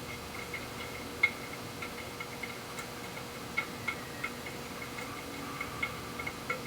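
Irregular light metallic clicks and clinks from hand tools and small metal parts being handled, one sharper click about a second in.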